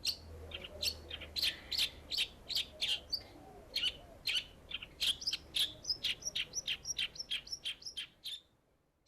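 A songbird chirping in quick, high, repeated notes, several a second, that stop shortly before the end.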